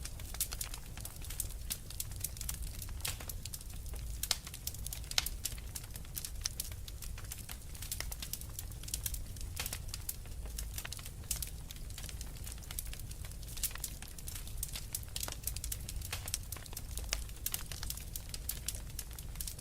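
Log fire crackling in a fireplace: a dense, irregular run of sharp pops and snaps over a steady low rumble.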